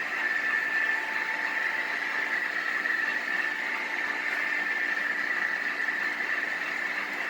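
HO scale model diesel locomotive running on the layout, giving a steady engine sound with a thin, high-centred tone and no rises or falls.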